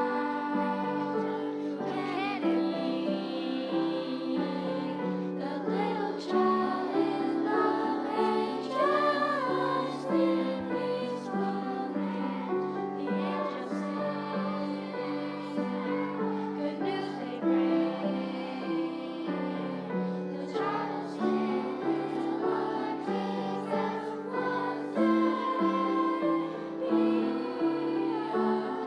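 A choir singing with instrumental accompaniment, in slow held chords.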